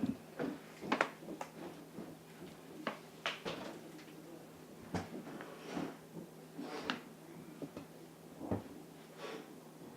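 Food containers and fridge shelves being handled and moved around: quiet, scattered clicks, knocks and light rattles at irregular intervals.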